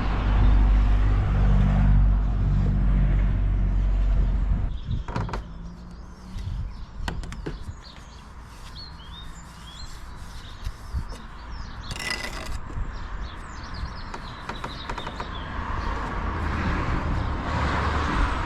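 A low engine rumble for the first four seconds or so, like a vehicle passing, then birds chirping with a few sharp knocks, and a broad rising noise near the end.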